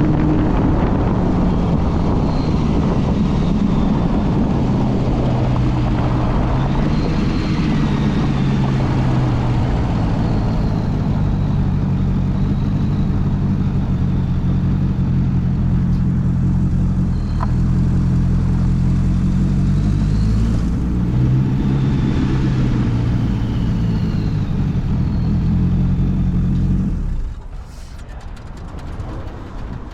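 The LS7 7.0-litre V8 of a custom 1963 Corvette roadster running under way, its engine note rising and falling in pitch. About 27 seconds in, the engine sound drops off sharply and becomes much quieter.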